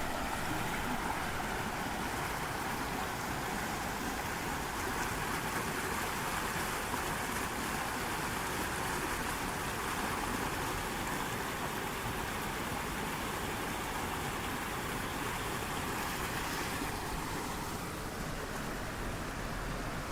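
Steady rushing of running water. Its higher hiss drops away about seventeen seconds in, leaving a duller rush.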